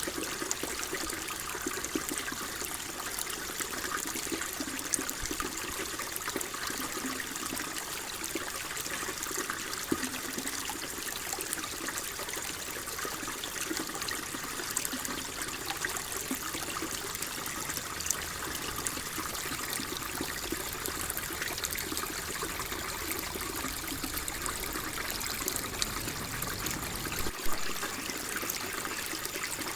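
Water flowing and trickling steadily, a continuous gentle babble with small splashes and one slightly louder splash near the end.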